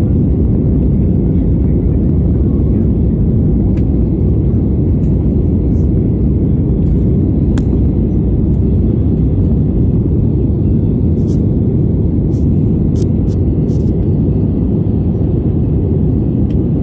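Steady low rumble of an airliner's engines and the airflow, heard from inside the passenger cabin, with a few faint ticks.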